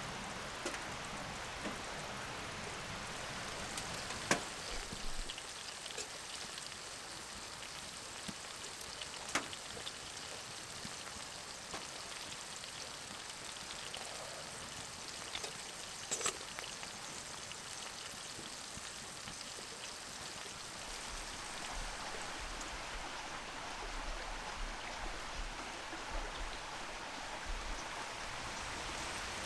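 Wood fire burning in a stove, crackling: a steady hiss with a few sharp, scattered pops.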